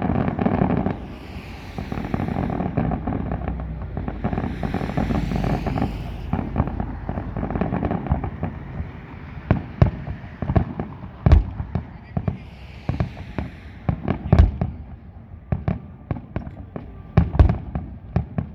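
Fireworks display: a dense, continuous rumble of overlapping shell bursts with crackling for about the first half. In the second half it breaks into separate sharp bangs, the loudest about three seconds apart.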